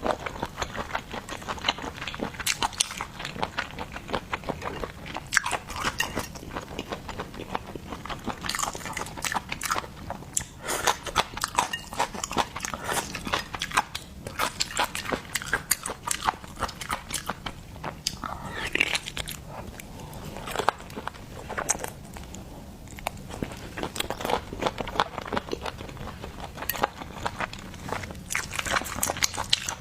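Close-miked eating of seafood: steady biting and chewing with crunching and many sharp wet clicks and smacks.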